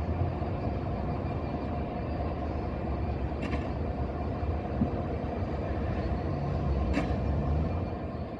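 Class 170 Turbostar diesel multiple units creeping slowly into a station: a steady low diesel rumble with a faint steady whine, and two brief sharp clicks about three and a half seconds apart.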